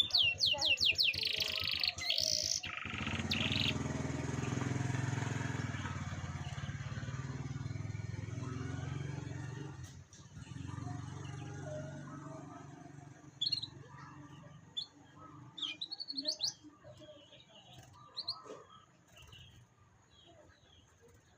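Canary singing: a fast trill of repeated rising notes for the first couple of seconds, then a few scattered short chirps later on. A low hum runs underneath for several seconds after the trill.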